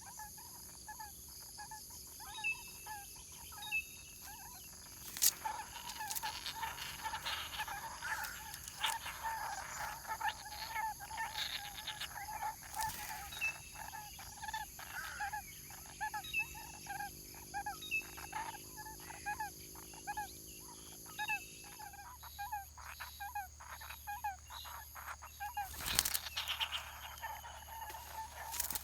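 A bird calling with a long, steady run of short pitched notes, about three a second, mixed with scattered sharp knocks and rustles.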